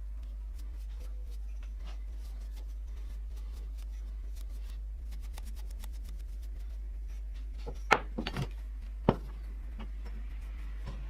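Small hard parts being handled: faint scattered ticks, then a sharp click about eight seconds in, a few lighter knocks right after, and another sharp click about a second later, over a steady low hum.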